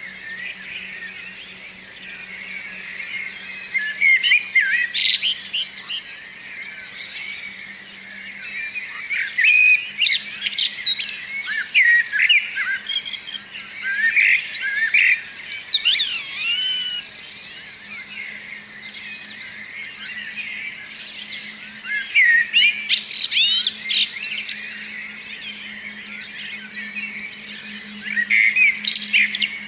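Several songbirds singing in a morning chorus: overlapping chirps, trills and warbled phrases, with louder spells of song every few seconds.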